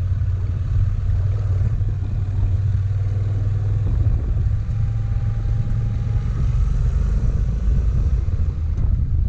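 Motorcycle engine running steadily while climbing, with a low rumble that turns rougher about four seconds in.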